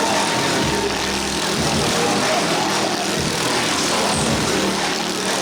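Motorcycle engine running with a steady, continuous drone, heard over the noise of an exhibition hall.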